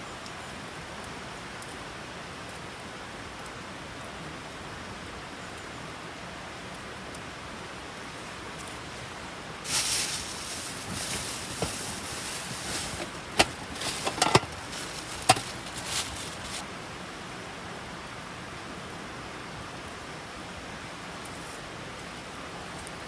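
Steady rain hiss. In the middle, about six seconds of rustling with several sharp clicks and knocks.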